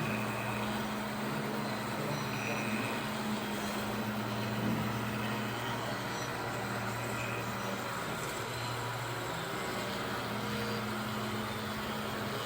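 Radio-controlled model truck running, heard as a steady low hum over a noisy hiss.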